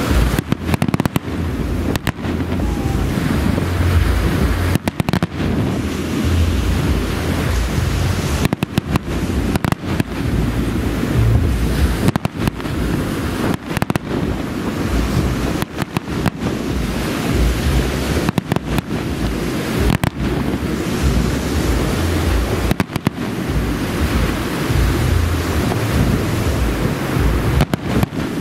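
Aerial fireworks shells bursting with booms and crackle over heavy, continuous wind rumble on the microphone. The sound drops out for an instant many times.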